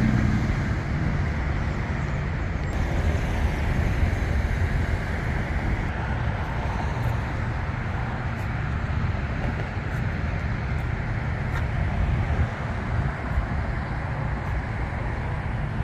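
Car on the move: a steady rumble of road and engine noise.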